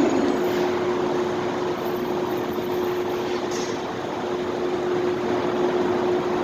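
Steady ambient noise of a supermarket parking lot: an even rushing noise with a constant hum running through it and no distinct events.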